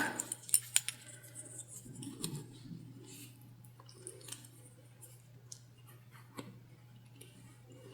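Light handling sounds of fabric and zipper tape being worked by hand: a few sharp little clicks in the first second, soft rustling a couple of seconds in, then only occasional faint ticks over a low steady hum.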